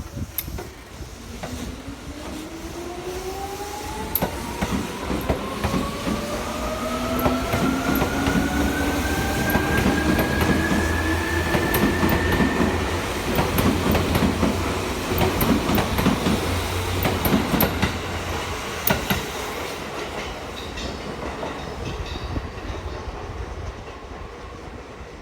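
Seibu Railway 2000 series electric train accelerating, its traction motors giving a whine that climbs steadily in pitch for about 13 seconds. Rumble and clatter of wheels over rail joints run underneath, easing off near the end.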